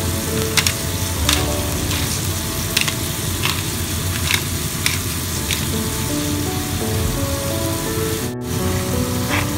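Shrimp, diced onion and garlic sizzling in oil in a nonstick frying pan, a steady hiss with scattered pops and crackles. The sound drops out for a split second a little over eight seconds in.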